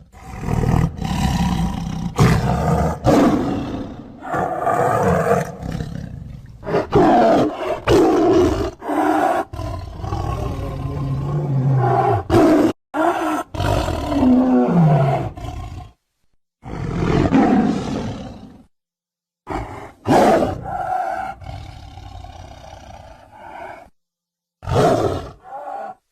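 Tiger roaring and growling: a string of separate roars cut one after another, with a few abrupt silent gaps between them.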